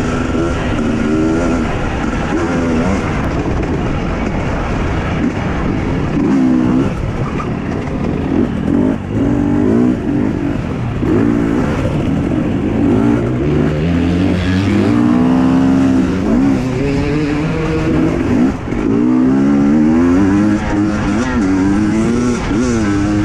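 Husqvarna TE 250i single-cylinder two-stroke enduro engine under hard riding. The revs rise and fall again and again as the rider works the throttle and gears, with a long climb in pitch about two-thirds of the way through.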